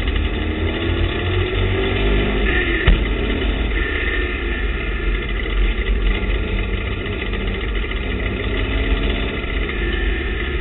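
TVR Tuscan race car engine under power, heard from inside the cockpit along with heavy rumble and road noise. Its pitch climbs for about three seconds, ends with a sharp knock, then runs steadily.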